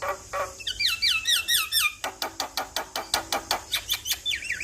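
Male Javan myna (jalak kebo) singing: a quick run of repeated falling whistled notes, then a fast series of short clicking notes, then falling whistles again near the end.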